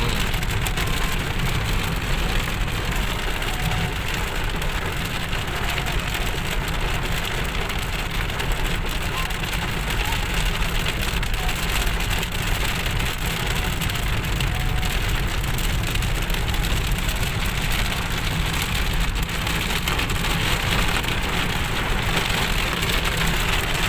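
Steady rain falling on a surface, with many fine drop hits, over a low, even rumble of a moving vehicle.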